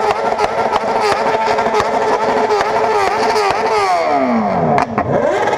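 Motorcycle engine held at high revs against the rev limiter, cutting out in rapid repeated stutters. About three and a half seconds in the revs fall away, then climb again near the end.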